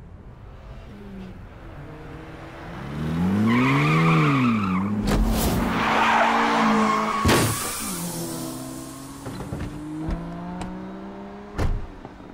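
Car engine revving up and back down, then a rush of tyre-skid noise with sharp knocks, and the engine running on more steadily near the end.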